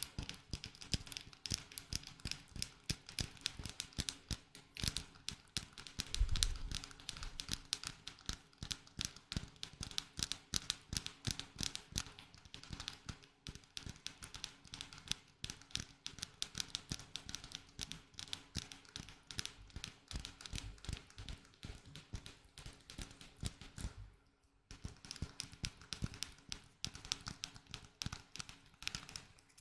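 Rapid, light ASMR tapping and scratching on a small object, many taps a second, with a brief pause about 24 seconds in.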